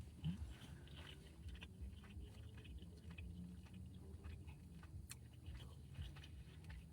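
A person chewing a mouthful of chicken shawarma and rice, with faint, irregular soft clicks and smacks close to the microphone.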